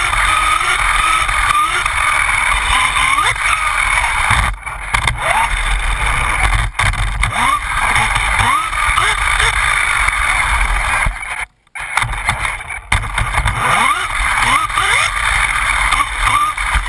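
Losi Mini 8ight RC buggy's brushless electric motor whining, its pitch rising and falling again and again as it speeds up and slows down, over a steady loud wash of drivetrain and tyre noise. The sound cuts out suddenly for a moment about eleven and a half seconds in.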